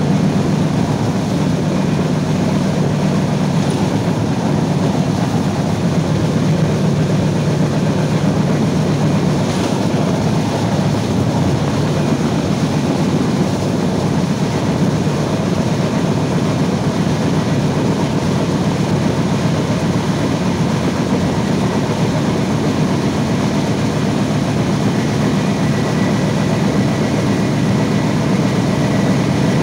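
Steady rumble of a passenger train coach running at speed over the rails, heard at an open window.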